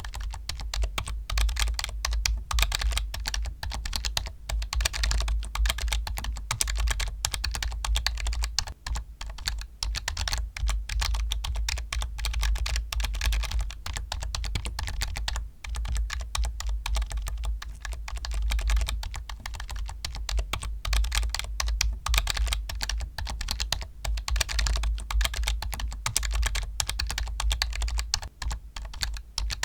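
Continuous fast typing on a computer keyboard: dense, unbroken key clicks with a deep low thud under them.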